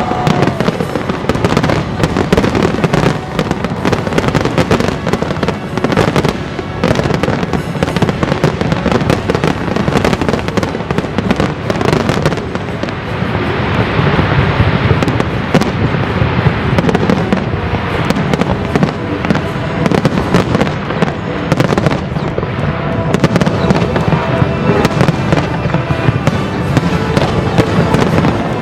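Dense fireworks display bursting continuously, many cracks and booms overlapping with no pause, over the show's Chinese orchestral background music.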